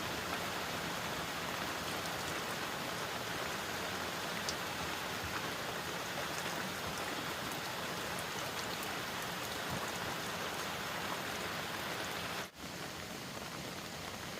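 Heavy rain falling steadily, with a few faint drop ticks. There is a brief break about twelve and a half seconds in, after which the rain is slightly quieter.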